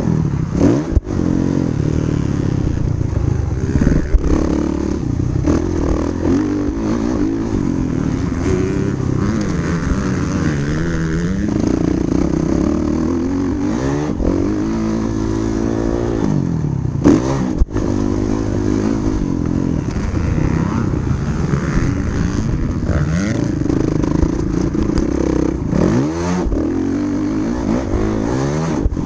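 Motocross dirt bike engine revving hard and falling off again and again as it is ridden through the gears. A few sharp knocks and clatters are heard, about a second in, at about four seconds and near the middle.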